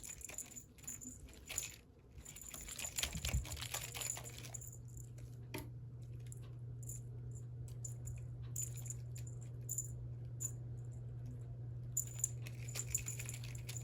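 Scattered light clicks and jingles, with a steady low hum that starts about three seconds in.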